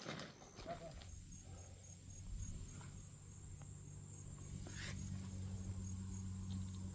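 Insects calling in woodland: a steady high-pitched trill with a regular pulsing chirp beneath it. A low steady hum comes in about a second in, with a few faint knocks.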